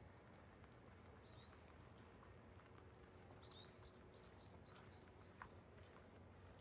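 Faint birdsong over a low steady hum: a couple of short chirps, then a quick run of about seven falling notes past the middle, and a single light tick near the end.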